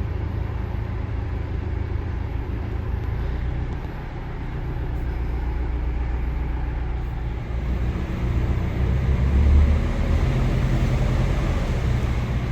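A narrowboat's diesel engine running steadily inside a canal tunnel: a low, continuous rumble that swells louder about nine to ten seconds in.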